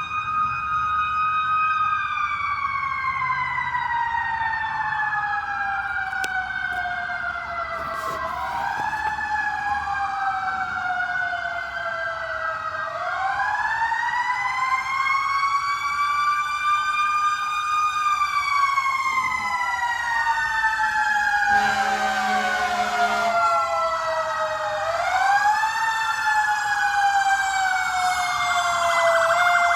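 Several fire truck sirens wailing at once, their pitches rising and falling and overlapping, with one long tone slowly falling in pitch over many seconds. A low blast lasting about two seconds cuts in about two-thirds of the way through.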